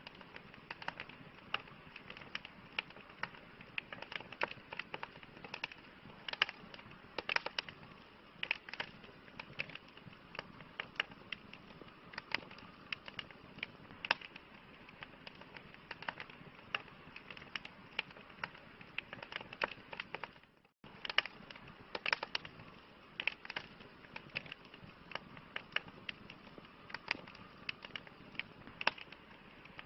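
Campfire crackling: irregular sharp pops and snaps of burning wood, several a second, over a steady soft hiss. The sound cuts out for a split second about two-thirds of the way through.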